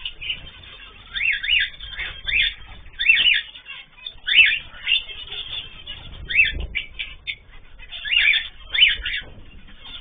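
Pet cage birds calling: a run of short, sharp chirping calls, each a quick up-and-down note, coming irregularly about once a second, sometimes in pairs.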